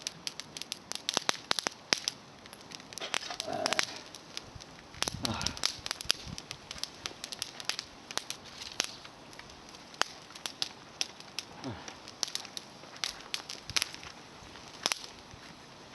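Small campfire of climbing-rose twigs crackling, with a constant run of sharp pops and snaps. A few short hissing puffs come through, about a third and again about three-quarters of the way in.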